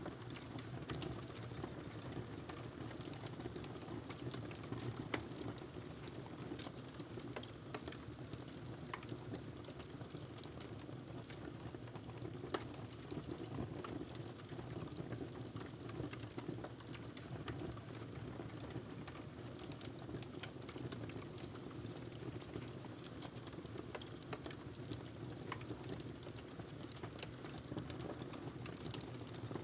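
Wood fire crackling in a fireplace: scattered sharp pops and ticks over a steady low rumble of flame. One loud pop comes about twelve seconds in.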